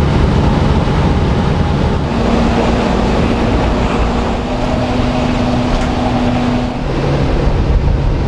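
A vehicle running steadily, a loud even rumble with a held hum that drops to a lower pitch near the end.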